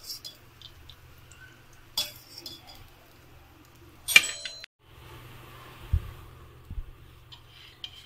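Kitchen utensils clinking and knocking, a few separate clinks, the loudest about four seconds in with a short ring.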